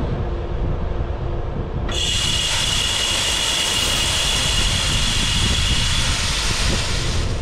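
Automatic corn feeder running its test cycle: about two seconds in the spinner motor kicks on with a steady high whine while broadcasting corn in a dense spraying hiss, then cuts off abruptly near the end. Wind rumbles on the microphone.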